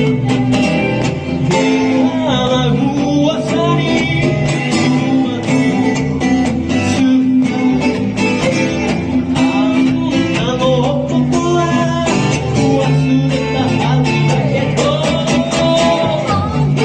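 Live band music led by guitar, with a gliding melody line over steady bass notes, in a country or bluegrass style.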